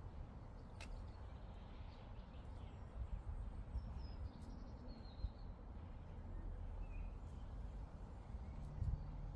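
Outdoor meadow ambience: a steady low wind rumble on the microphone, with a few faint, short bird chirps in the middle and a single sharp click about a second in.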